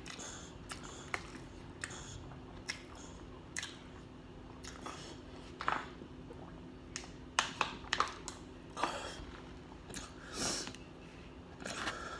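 Close-up chewing and mouth smacking of a person eating fried chicken tenders and french fries, with scattered short crisp clicks and crunches over a low steady hum.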